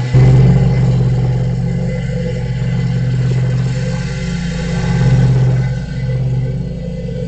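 A steady low mechanical hum, like a motor running, swelling slightly about five seconds in.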